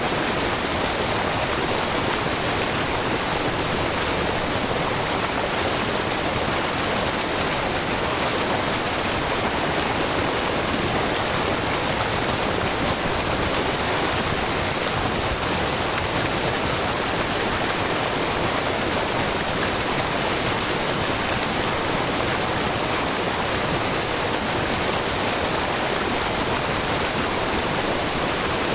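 Steady rush of water from a wide, low waterfall, many thin streams of spring water falling from a rock face, with no breaks or changes.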